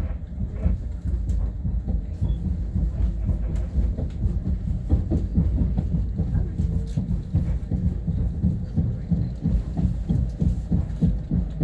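Long Island Rail Road M3 electric commuter train running between stations, heard on board: a steady low rumble with scattered clicks and knocks from the wheels on the track.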